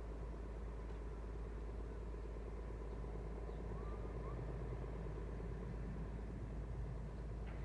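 Steady low rumble of a running vehicle, with no distinct events.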